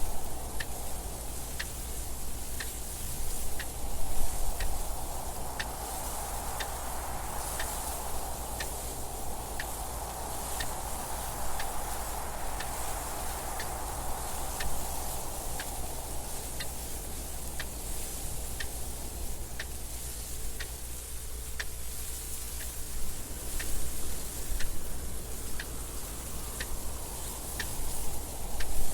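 A clock ticking steadily, about one tick a second, over wind that swells and eases in gusts.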